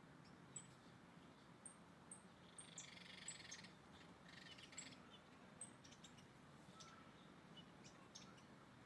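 Faint bird calls: short, very high chirps repeated every half second or so, with two brief buzzy trills about three and four and a half seconds in.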